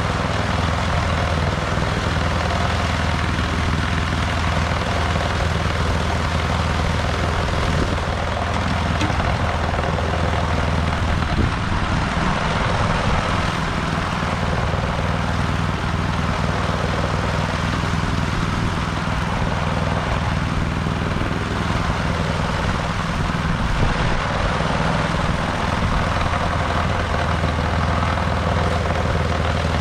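Snowblower engine running steadily under load while clearing deep snow.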